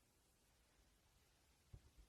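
Near silence: faint room hiss, with one soft low thump near the end.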